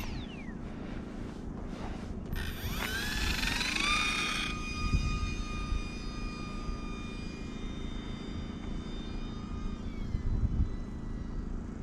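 Small RC airplane's electric motor and propeller spinning up with a rising whine about two seconds in, then holding a steady high whine that drops a little near the end, with wind rumbling on the microphone.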